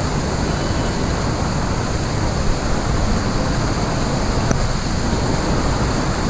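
Amboli waterfall's water rushing steadily in an even wash of noise.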